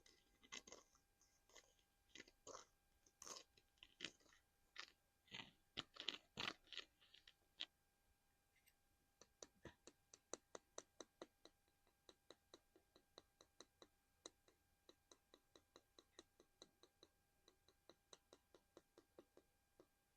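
ASMR tapping and scratching on a small collectible: irregular taps and scrapes for about eight seconds, then, after a short pause, a fast, even run of light taps, about four a second.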